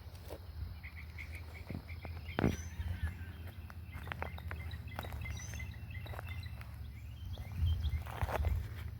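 Outdoor garden ambience with scattered short bird chirps and calls over a steady low rumble, broken by a sharp knock about two and a half seconds in and a few low thumps near the end.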